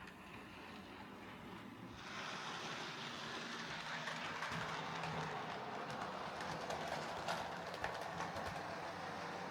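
OO gauge Bachmann Class 37 model locomotive running along the track, its motor whirring and wheels running over the rails with light clicks. It gets louder about two seconds in. The motor is running again after its commutator was cleaned out with contact cleaner.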